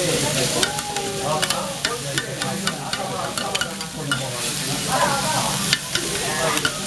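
Chopped cabbage sizzling as it stir-fries on a hot iron teppan griddle, with metal spatulas scraping and clicking sharply as they chop and turn it.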